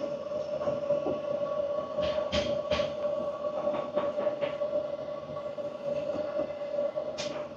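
Scrubbing and handling noises from cleaning an espresso machine's E61 group with detergent, with sharp clicks about two and a half seconds in and near the end, over a steady hum.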